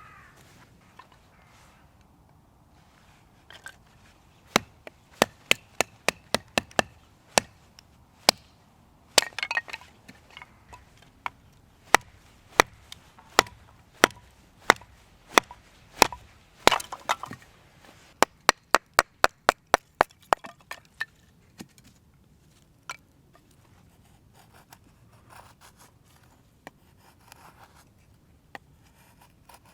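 A series of sharp wooden knocks, mostly one or two a second, with a quick run of about six a second about two-thirds of the way through: firewood being chopped or split.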